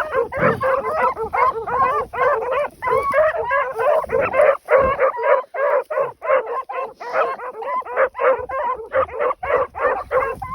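A pack of beagles baying in chorus while running a rabbit's track, a continuous stream of overlapping barks at about three or four a second.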